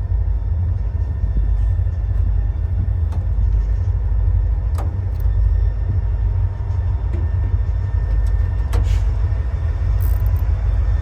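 Steady low rumble, with a couple of sharp clicks.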